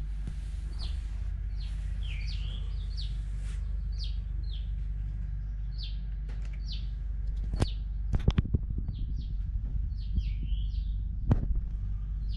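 A small bird chirping repeatedly, short high calls about once or twice a second, some sliding down in pitch, over a steady low background hum. A few sharp knocks come around eight seconds in and again near the end.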